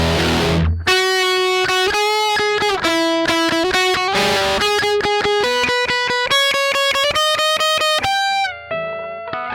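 Electric guitar played through a ProCo RAT 2 distortion pedal: a distorted chord rings for just under a second, then a run of single melodic notes follows, ending on a softer held note near the end.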